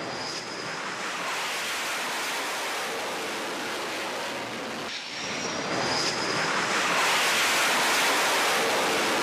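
Jet aircraft engine noise: a steady rushing sound with a faint high whine, in two stretches split by a brief cut about five seconds in, the second a little louder.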